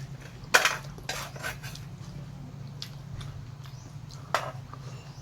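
Tableware clinking at a meal: a sharp clink of a plate or utensil about half a second in, a few lighter taps after it, and another clink near the end.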